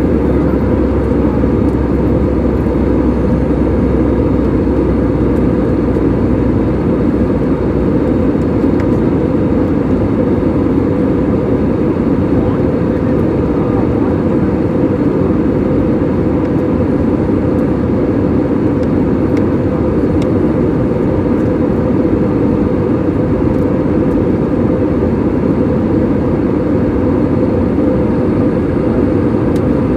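Airliner cabin noise: the steady, loud drone of engines and rushing air heard from inside the cabin in flight. A deep hum underneath drops away about seven seconds in.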